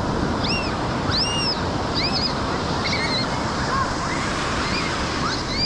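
Beach surf washing steadily with wind on the microphone, and several short high chirps that rise and fall in pitch, scattered through it.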